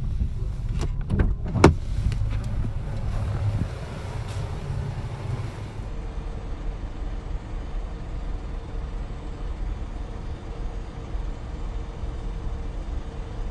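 Car running, heard from inside the cabin: a steady low rumble, with a few sharp clicks in the first two seconds.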